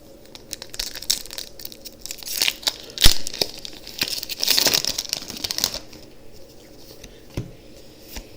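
Pokémon booster pack's foil wrapper crinkling and being torn open, with a sharp snap about three seconds in and a longer tear from about four and a half to five and a half seconds. It goes quieter after that, with one light tap near the end.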